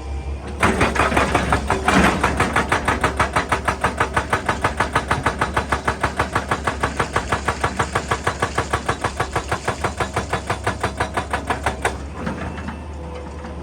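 Excavator-mounted hydraulic breaker hammering rock in a fast, even rhythm of about five blows a second, starting about half a second in and stopping near the end, over the steady hum of the machine's diesel engine.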